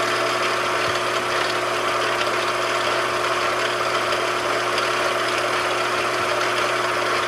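Machine tool's electric motor and drive running steadily with no cutting, a constant hum with a hiss over it.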